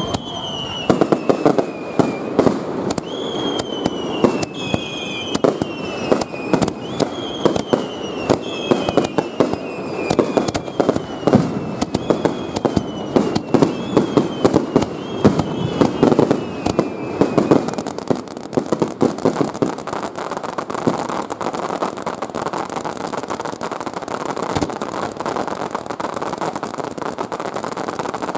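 Star mine fireworks barrage: rapid sharp bangs of aerial shells, with repeated whistling tones that each fall in pitch. After about eighteen seconds the whistles stop and the bangs give way to a dense, steady crackling.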